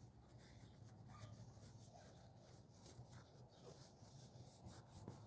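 Near silence: a low steady hum with faint, irregular scratching or rubbing.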